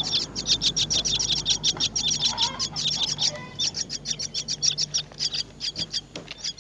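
Myna nestlings begging: a fast, continuous run of short, high chirps, several a second, with a brief break about three seconds in.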